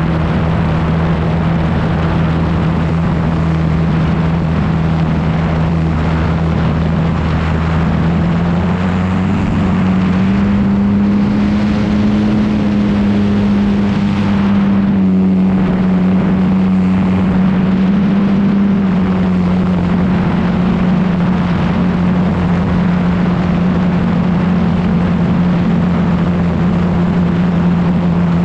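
Yak 54's engine and propeller running steadily at high power, picked up close by an on-board camera with wind rushing over the microphone. The engine note rises a little about ten seconds in, holds, then eases back down.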